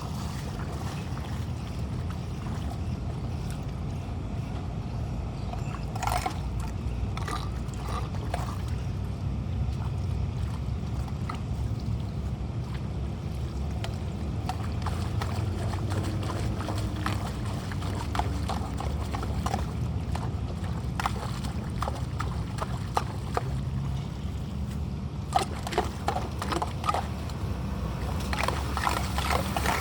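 Flowing storm water and rain with a steady low rumble, broken by scattered short knocks and taps that come thicker near the end.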